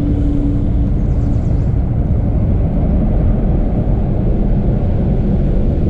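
Wind buffeting the microphone: a loud, steady low rumble, with a faint steady hum in the first second or two.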